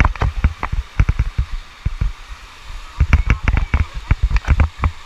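Water splashing and spraying over the microphone on a raft in rapids: a rapid, irregular run of sharp thumps and crackles, densest at the start and again from about three seconds in.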